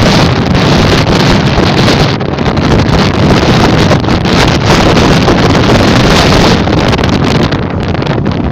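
Blizzard wind buffeting the microphone: a loud, even rushing noise that rises and falls in gusts.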